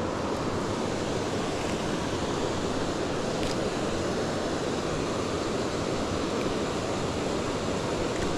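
Steady rush of creek water spilling over a small waterfall.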